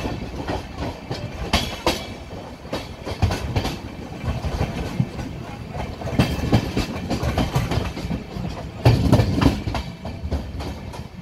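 Coaches of the 02665 Howrah–Kanniyakumari Special Express rolling slowly over the rails, heard close to the wheels from the coach doorway. A steady rumble runs under irregular wheel clatter and clanks over rail joints and points, with a louder burst of clanking about nine seconds in.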